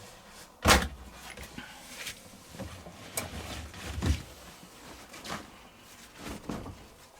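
Front-loading washing machine door being unlatched and opened, a sharp clunk about a second in, followed by scattered knocks and rustling as the washed shirts are handled.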